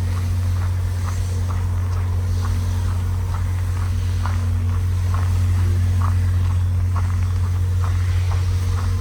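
Steady low diesel hum from the idling locomotives of a stopped passenger train, with footsteps on the station platform about twice a second.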